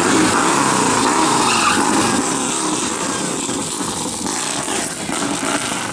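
Motor vehicle running with a loud, steady rush of road or wind noise, fading slightly near the end.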